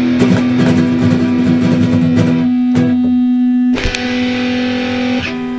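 Guitar-led rock music without singing: held notes and strummed chords, with a sharp accent a little under four seconds in.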